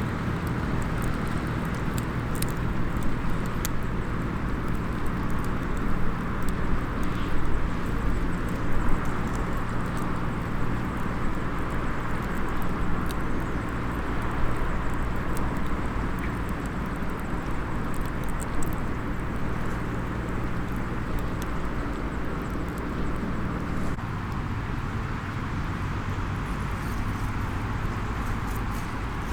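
Small wood fire crackling in a mini fire stand, with a few sharp pops, over a steady low engine hum and outdoor background noise.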